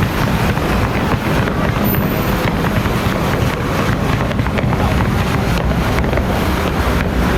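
Dense, continuous crackling of firecrackers, a rapid unbroken rattle of small bangs at a steady loud level.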